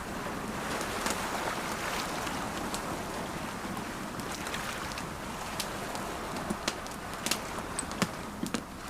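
Campfire crackling with scattered sharp pops, several louder ones in the second half, over the steady wash of ocean waves.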